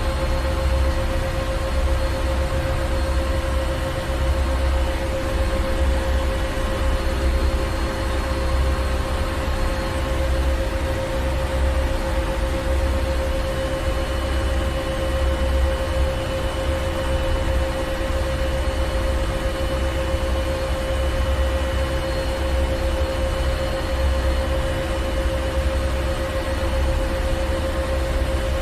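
Ship's engine room: heavy machinery running steadily, with a constant mid-pitched hum over an uneven low throb and a broad wash of mechanical noise.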